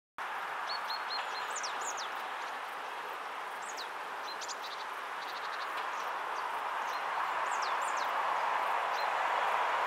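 A distant train approaching: a steady rushing noise that slowly grows louder. Songbirds chirp and call over it throughout.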